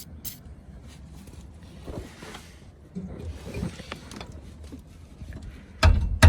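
Scattered clicks and light knocks of handling, with a short run of loud, low thumps near the end.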